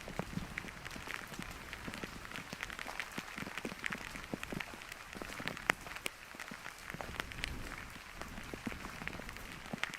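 Rain falling: a steady hiss with many small, irregular ticks of drops hitting nearby surfaces.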